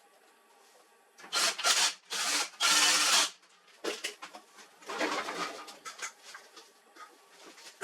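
Hands handling parts: about four short scraping, sliding strokes in quick succession, then scattered small clicks and rustling.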